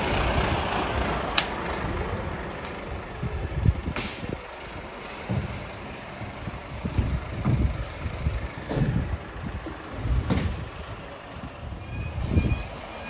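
Low, steady rumble of a large truck's diesel engine, with a few sharp pops and knocks over it.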